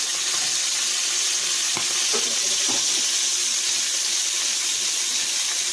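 Flour-dredged chicken liver frying in olive oil in a pan: a steady sizzle, with a few faint pops about two to three seconds in.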